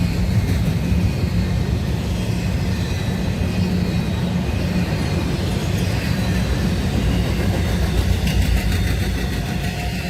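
Train passing close by with a steady, loud low rumble.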